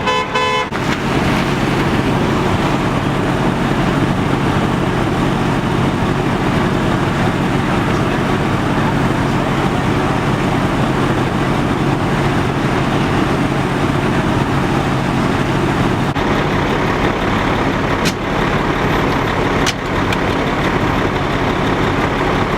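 A short horn toot right at the start, then a heavy vehicle's engine idling steadily under a constant rushing noise, with two brief clicks near the end.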